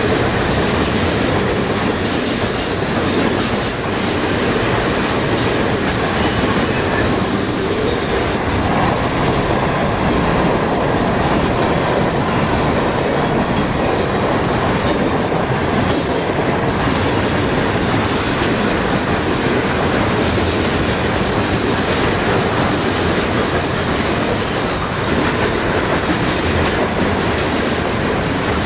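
Freight train cars rolling past, with steady wheel-and-rail noise and clicking over rail joints. Brief high wheel squeals come a few times: about three seconds in, around eight seconds, and again near the end.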